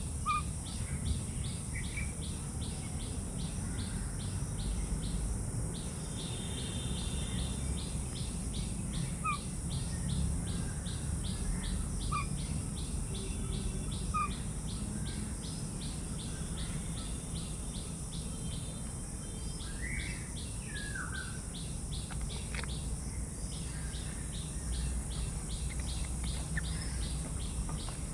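An insect calling in steady, evenly spaced rapid pulses, with scattered short bird chirps and a low rumble underneath.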